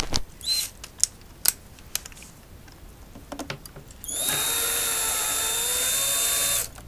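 Handheld power screwdriver or drill running steadily for about two and a half seconds after a few small handling clicks, backing out screws while an electric unicycle is taken apart.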